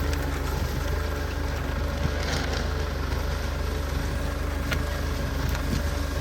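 Tractor diesel engine running steadily as it pulls a disc plough, with a few sharp clicks over it.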